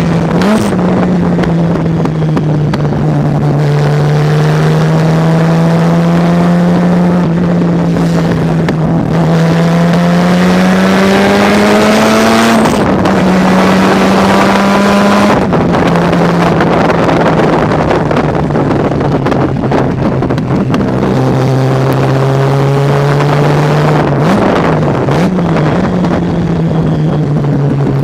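Mazda rotary-engined race car's engine under load at racing speed, its note slowly climbing and then stepping down at gear changes. Near the end come two quick throttle blips as it shifts down for a corner.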